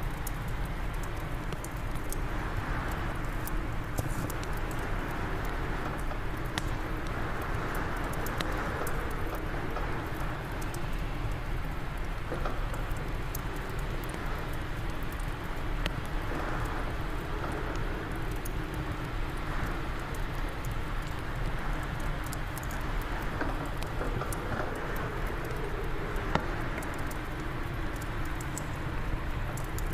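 Fireplace fire crackling with scattered sharp pops, one louder crack near the end, over wind blowing in a steady low rumble that swells into gusts every several seconds.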